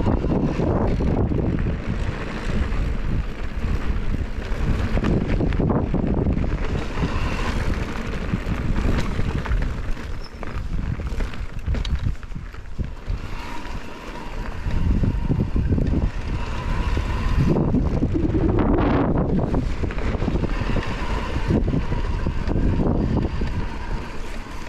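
Wind buffeting the microphone of a chest-mounted action camera while riding a mountain bike on a dirt trail: a loud, gusting low rumble with scattered knocks and rattles from the bike.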